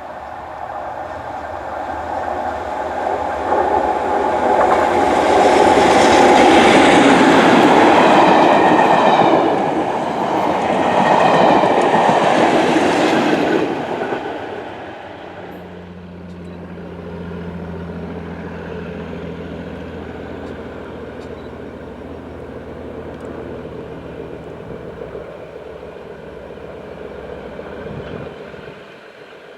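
Network Rail test train with a Colas Class 37 diesel locomotive passing, its noise building, loudest for several seconds, then falling away about fourteen seconds in. A steady low diesel engine note follows and carries on to near the end.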